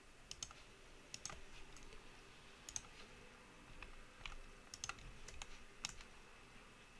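Faint, irregular clicks of a computer mouse and keyboard, some in quick pairs, over a low room hiss.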